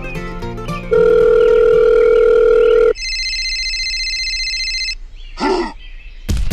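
Dubbed sound effects: plucked-string music gives way about a second in to a loud, steady electronic beep for about two seconds, then a higher, phone-like electronic ringing tone for about two seconds, a short squeak, and near the end a rapid, even knocking that starts up.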